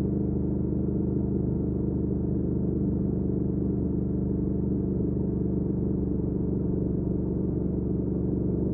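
Triumph Speed Twin 1200's 270-degree parallel-twin engine running at a steady cruising speed through a Weslake Shorty Pro exhaust: an even, low drone that holds its pitch.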